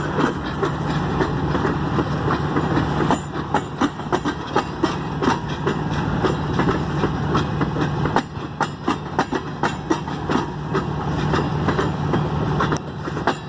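The last cars of a CN mixed freight train rolling past, their wheels clacking irregularly over the rail joints over a steady low rumble.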